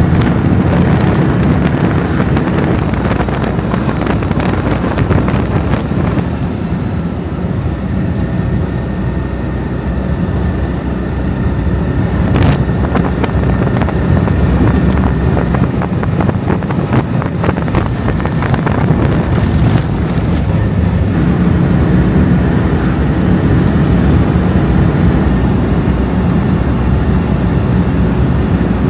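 Citroën 2CV's air-cooled flat-twin engine running steadily as the car drives, heard from inside the cabin over road and wind noise.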